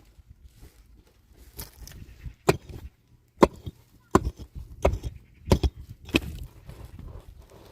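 A hand tool chopping with about seven steady, evenly spaced blows, roughly one every 0.7 seconds.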